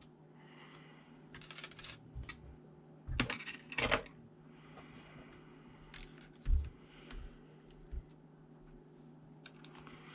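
Small metal parts and screws clinking and clicking as a laptop is taken apart or put back together by hand, with a few louder clacks about three to four seconds in and a dull knock a little later, over a steady low hum.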